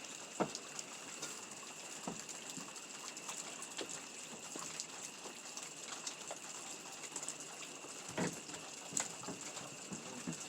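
Footsteps on old wooden porch boards: scattered knocks and creaks, the loudest about half a second in and again near the end, over a steady high-pitched drone.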